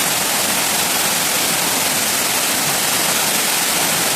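Rushing water, a steady, even hiss with no breaks, as from a waterfall close by.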